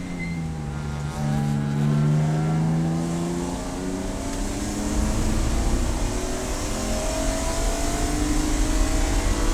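Race car engine under acceleration: its pitch climbs slowly, drops at a gear change about four seconds in, then climbs again as wind and road noise grow louder.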